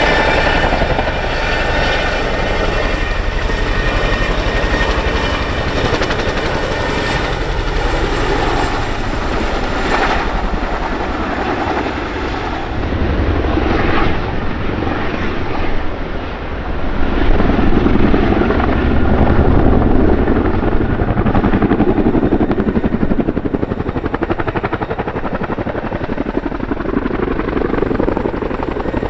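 Boeing CH-47F Chinook tandem-rotor helicopter: the steady beat of its two rotors over the whine of its turbine engines. It is loudest from about the middle of the stretch, with a high whining tone clearest in the first few seconds.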